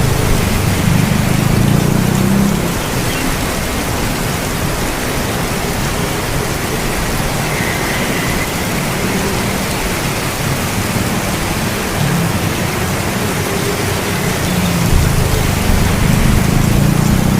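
Steady rain falling, with a low rumble of thunder at the start that fades after about two seconds and a second rumble building near the end.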